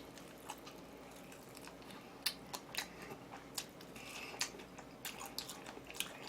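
Close-miked chewing and biting: wet mouth smacks and sharp little clicks at an irregular pace, a few a second at most.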